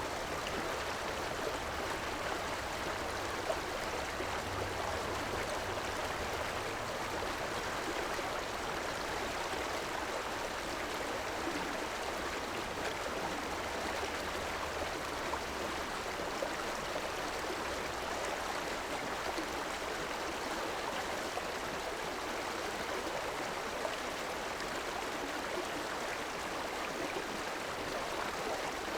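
River water flowing steadily, an even rush of babbling and gurgling with no break.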